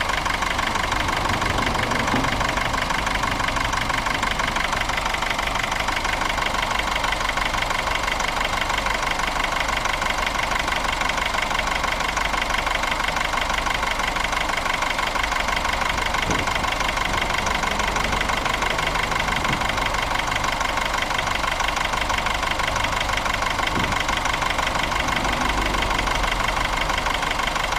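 Nissan Primera engine idling steadily, with a fast, even ticking running through it.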